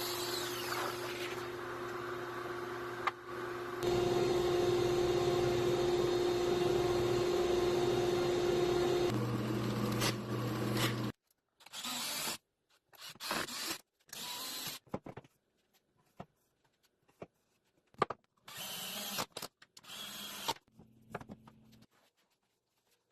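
Electric power tool running steadily for about eleven seconds, then cut into short separate bursts with silence between them.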